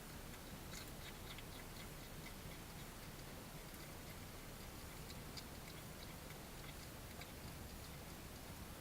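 Faint, irregular small clicks and taps of an animal eating at a feeding station, over a steady low hiss and hum.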